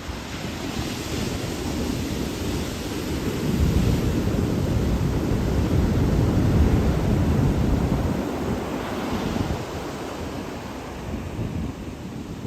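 Ocean surf washing in, with wind buffeting the microphone; the rumble swells about four seconds in and eases off after about eight seconds.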